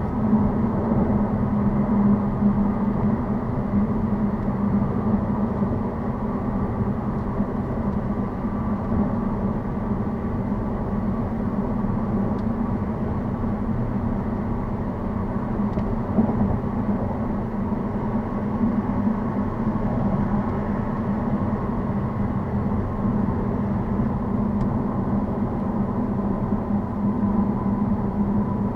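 Steady drone of a vehicle driving at road speed: engine and tyre noise holding an even, low pitch, with no clear revving up or down.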